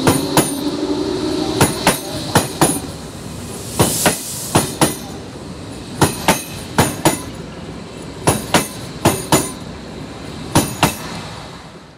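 Berlin S-Bahn electric train pulling out and passing close by, its wheels clacking over the rail joints in quick pairs, bogie after bogie, with a rising motor whine in the first couple of seconds. The clacking stops and the sound falls away near the end as the last car passes.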